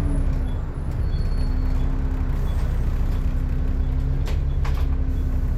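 Volvo B7TL bus running, heard on board: a steady diesel rumble with a loud whining 'hoover' tone held at an even pitch. A couple of brief clicks come about four seconds in.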